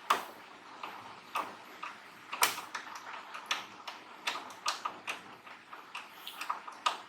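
Irregular clicks and light knocks of small hard parts and tools being handled, about a dozen in all. The sharpest come just after the start and about two and a half seconds in.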